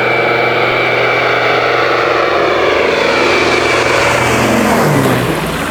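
Catalina PBY-5A flying boat's twin radial piston engines and propellers passing low overhead: a steady drone that rises to its loudest about five seconds in, then drops sharply in pitch as the aircraft goes by.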